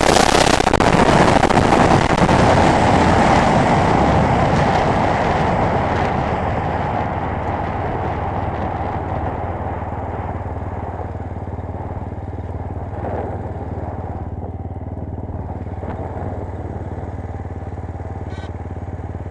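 GX-R 250S motorcycle coming off speed. Its loud rushing noise fades over the first several seconds and settles into a steady idle.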